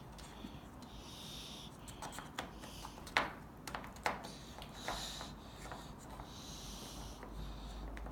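Faint clicks and scrapes of a child's toy mixer being worked by hand, with soft breathing sounds close to the microphone.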